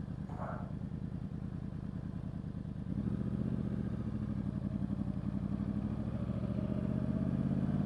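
Yamaha R1's inline-four engine running at low speed, then picking up about three seconds in as the bike pulls away slowly, a little louder toward the end.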